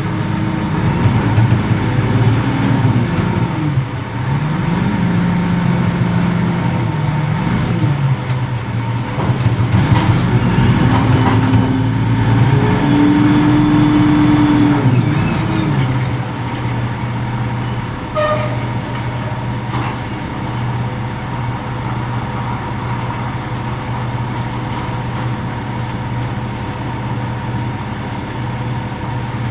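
Reach stacker's diesel engine revving up and down for about the first sixteen seconds, then running at a steady speed, with a faint steady high tone underneath.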